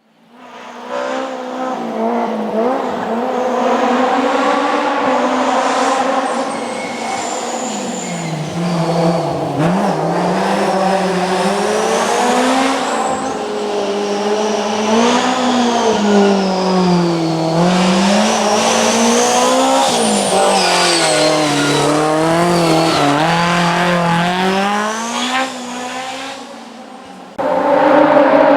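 Historic rally car driven hard on a special stage, its engine revs climbing and dropping again and again through gear changes and corners. Near the end it fades, and a louder engine sound cuts in abruptly.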